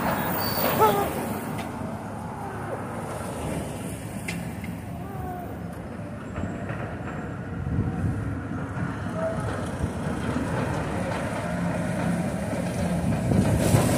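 Steady rumble of road traffic, with a heavy vehicle passing and a brief falling squeal about a second in.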